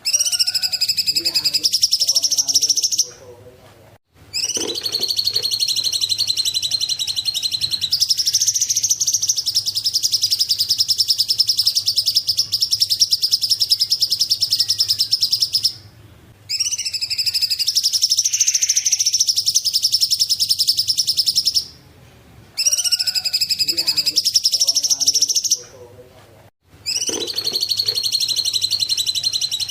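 Song of the bird sold as the cungkok: long, rapid, high trills lasting several seconds each. Each opens with a few lower warbled notes and stops abruptly, and the phrases repeat after short pauses.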